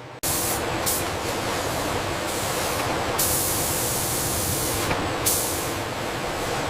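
A steady hiss, like a spray or an air blast, that starts abruptly just after the start and grows brighter and sharper for about two seconds in the middle.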